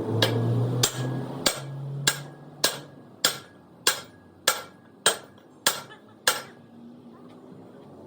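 A hammer striking metal in a steady rhythm: about ten ringing blows, roughly one every 0.6 seconds, stopping about six seconds in. A low hum sits under the first two blows.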